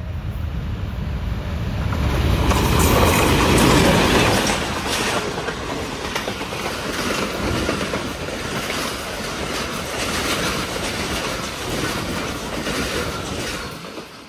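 Passenger express train led by a Hitachi diesel-electric locomotive passing close by at speed. The locomotive's rumble peaks about three to four seconds in, then the coaches' wheels clatter over the rail joints in a steady rhythm until the sound falls away near the end.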